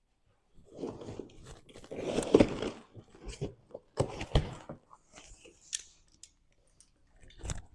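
Cardboard box and packaging being opened and handled: irregular crunching, rustling and tearing with sharp clicks, loudest about two seconds in, and a heavier knock near the end.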